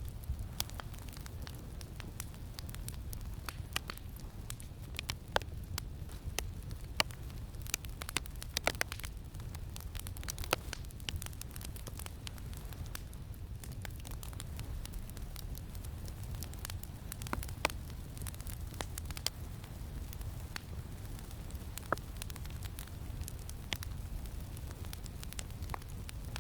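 Campfire crackling, with irregular sharp pops scattered throughout, over a steady low rumble of wind.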